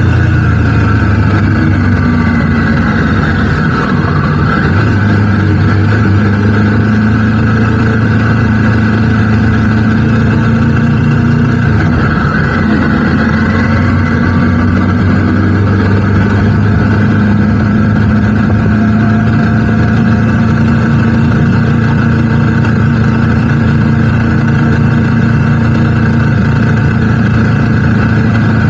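Triumph Tiger 900 GT Pro's inline-three engine running steadily while the motorcycle is ridden, over a constant rush of wind and road noise, with small changes in engine pitch about 4 and 12 seconds in.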